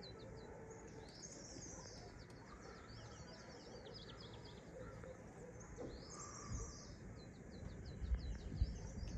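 Small birds chirping and twittering in quick, high, overlapping calls over a faint steady background hiss. Low thumps, like wind or handling on the microphone, come in near the end.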